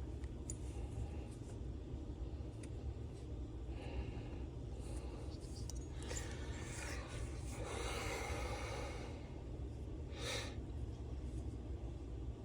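Faint rustling and light handling noises of small engine parts being worked by hand, over a steady low hum, with a short hiss about ten seconds in.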